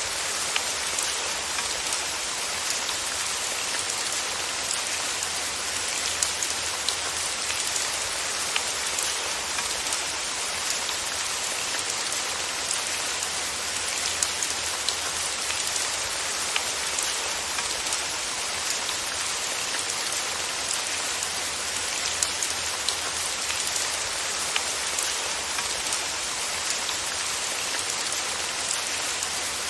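Steady rain falling, an even hiss of rain on a surface with scattered individual drops ticking through it.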